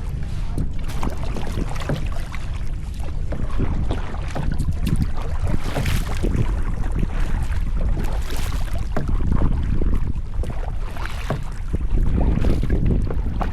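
Water splashing and lapping around a sit-on-top kayak, with stronger splashes every two to three seconds, under a steady low rumble of wind on the microphone.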